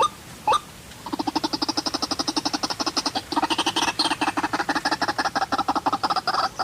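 White-breasted waterhen calling: one sharp rising call, then from about a second in a fast, continuous chatter of rapid pulsed croaks.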